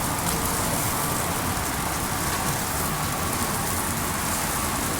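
Chicken wings sizzling on the grate of a kamado grill over lit lump charcoal, with steady hiss and scattered crackles as dripping fat flares up. The flare-up comes from the extra airflow after the lid was left open.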